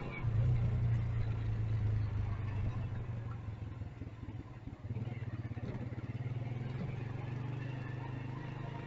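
Motorcycle engine running under the rider in city traffic, a steady low hum. It pulls louder just after the start, eases off briefly about four to five seconds in, then runs steadily again.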